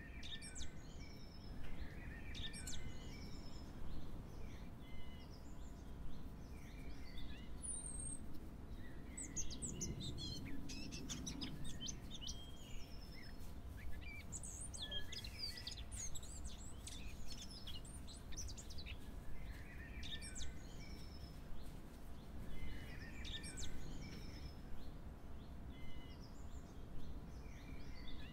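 Several birds chirping and singing, with many short, quick calls throughout, over a low steady background noise.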